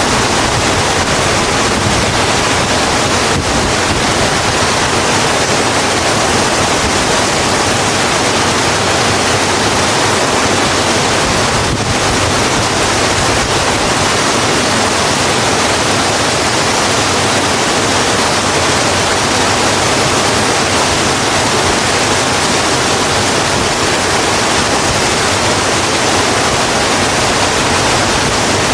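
Heavy, steady rain falling on a road, a continuous even hiss.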